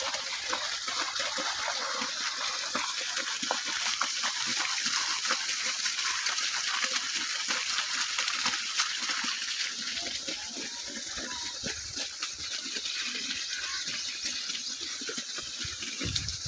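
Steady rush of running water, a dense hiss that eases slightly about ten seconds in.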